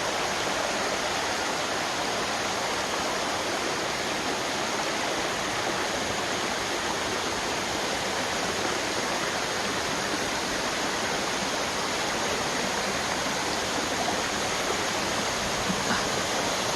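Steady rush of water from Likeke Falls, a two-tiered waterfall, and its stream, unbroken throughout.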